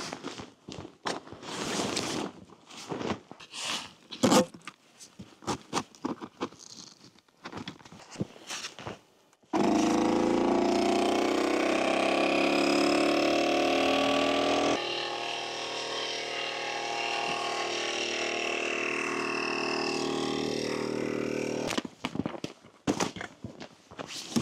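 Footsteps and handling noises in snow, then an electric air pump switches on suddenly and runs steadily to inflate an air tent. Its tone drops to a lower, quieter run about halfway through, and it cuts off abruptly a couple of seconds before the end.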